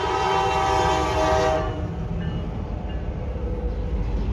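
Diesel locomotive's air horn sounding a chord that cuts off about one and a half seconds in, over the low rumble of the train.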